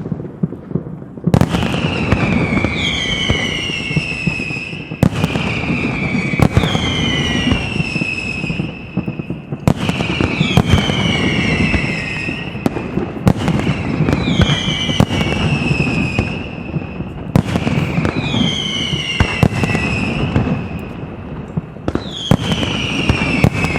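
Castillo fireworks display by Pirotecnia Turis: a sharp bang about every four seconds, each followed by several high whistles gliding down in pitch, over continuous crackling and popping.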